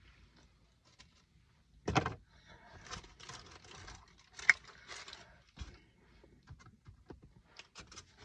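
Handling noises: rustling and clattering of takeout food packaging, with a thump about two seconds in and a sharp click near the middle.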